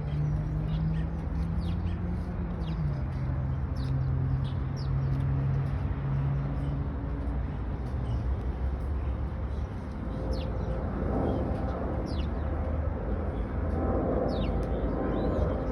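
Steady low engine hum that drops in pitch about three seconds in and fades out by about halfway, over a constant background rumble, with birds chirping again and again.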